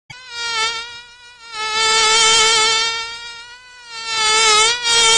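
Flying insect buzzing, a high steady whine that swells and fades several times.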